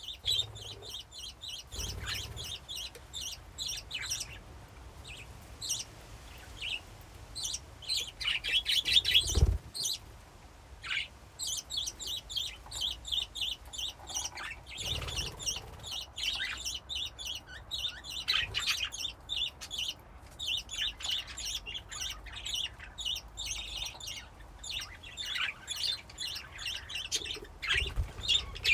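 A flock of budgerigars chirping and warbling continuously, many rapid overlapping calls, with a louder burst of chattering about eight to ten seconds in. A few soft low thumps, such as wing flutters or birds landing, come now and then.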